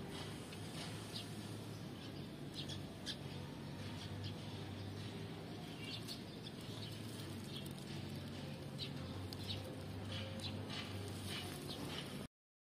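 Outdoor background with short, scattered bird chirps over a steady low hum. The sound cuts off abruptly near the end.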